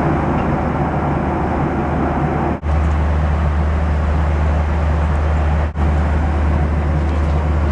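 Airliner cabin noise: a steady low engine drone under rushing air, in short clips cut together, with the drone growing louder about two and a half seconds in.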